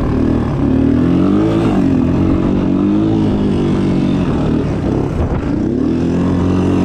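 A motor vehicle engine running and being revved, its pitch rising and falling a few times over a steady low rumble.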